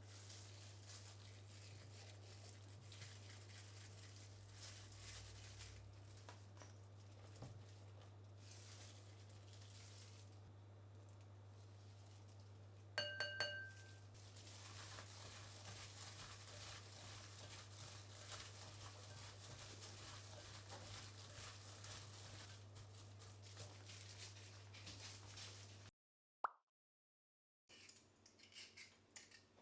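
Quiet kitchen work sounds over a steady low hum: faint clinks and light handling of utensils and ingredients, with a short electronic beep about 13 seconds in. The sound cuts out to silence for a moment near the end.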